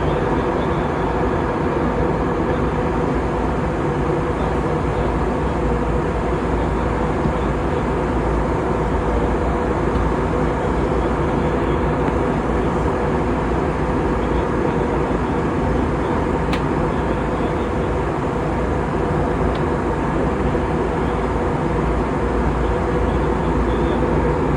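Steady cabin drone of a jet airliner in flight: engine hum and airflow noise holding even, with no change in pitch or level.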